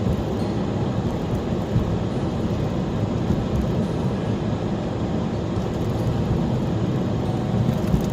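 Car driving along, with a steady mix of engine and road noise.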